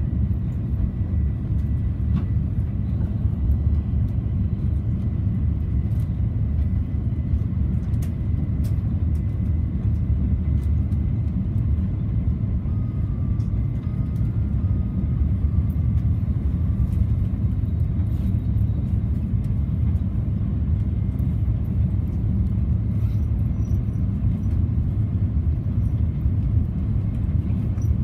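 Tohoku Shinkansen train running at speed, heard inside the passenger cabin as a steady low rumble, with a faint steady high whine in the first half.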